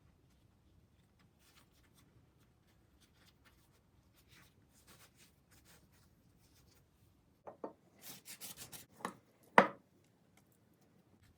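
Kitchen handling sounds: faint rustling, then a quick run of sharp knocks and clatter about seven and a half seconds in, ending in one loud knock.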